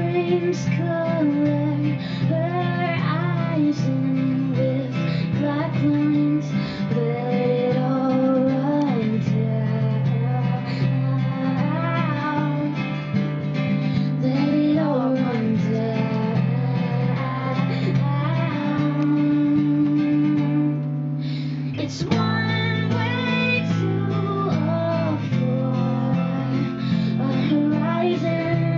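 A woman singing a pop song live to a strummed acoustic guitar, her voice gliding over steady held chords.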